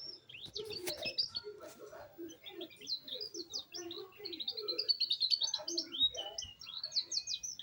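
Young canary singing, a rapid run of high chirps and short trills as it begins to practise its rolling song.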